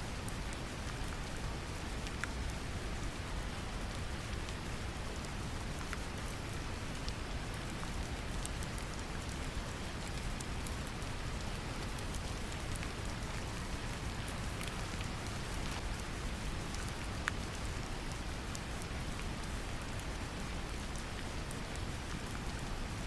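Steady brown noise, strongest in the low rumble, mixed with gentle rain, whose scattered drops tick faintly on top.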